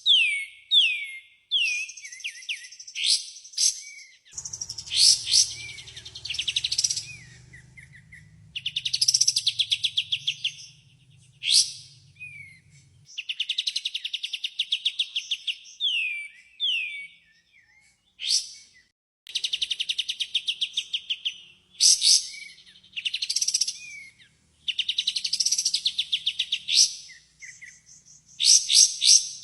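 Kapas tembak songbird singing: bursts of fast rattling trills alternate with short downward-sliding whistles, phrase after phrase with brief gaps. It is a lure song meant to get kapas tembak birds to answer.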